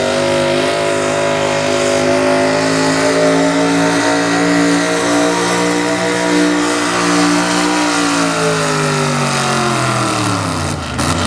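Super stock pickup's engine running at high revs under load while pulling the sled, its pitch held high and then falling over the last few seconds as the run winds down.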